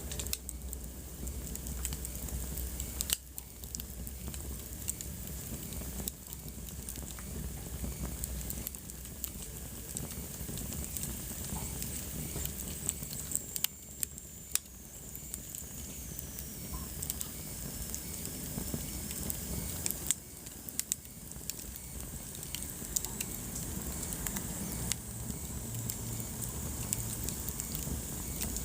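Wood fire burning in a fireplace: a steady low rumble and hiss with frequent sharp crackles and pops. Midway through, a faint high whistle slides down in pitch.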